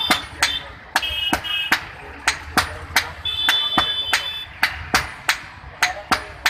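Hammer blows on hot iron at the anvil, about two to three strikes a second in an uneven rhythm. A high, steady tone sounds on and off between the blows.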